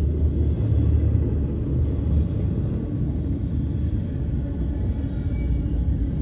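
Long freight train rolling past, a steady low rumble of its cars on the rails.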